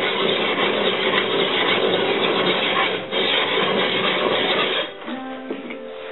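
Sharpening stone scraping along a hand-forged steel sword blade: a continuous rasping scrape with a brief break about three seconds in. It stops near the end, when background music with plucked notes begins.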